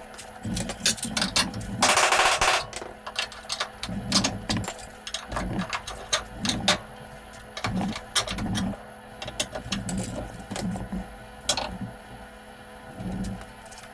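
Irregular sharp metal knocks and clanks on car-body sheet steel, with a short burst of a power tool about two seconds in, as a spot-welded gearbox bracket is worked off the chassis rail.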